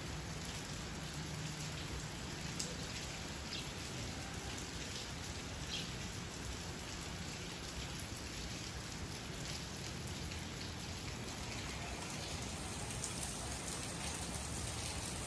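Light, fine rain falling steadily: an even hiss of rain with a few faint ticks of drops.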